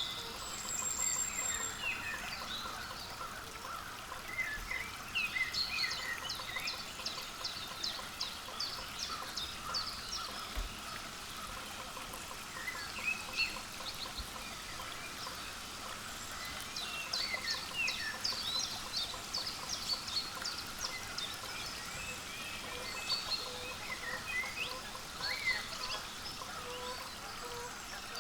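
Small songbirds chirping and calling: many short, high chirps in loose flurries, with steady faint background noise beneath.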